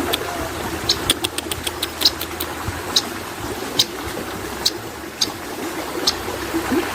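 Cucak koreng bird giving short, sharp high chirps, one every half second to a second, over a steady low engine-like drone.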